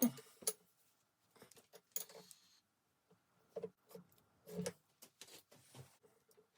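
Scattered light metallic clinks and knocks of tools and parts being handled during lathe setup, the sharpest at the very start and another about two seconds in with a brief ring.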